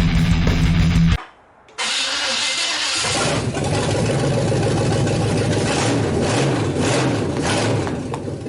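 Heavy-metal music cuts off just after a second in. Then a Chevy S10's engine cranks, catches and runs roughly for several seconds on fresh headers, fading near the end as it dies.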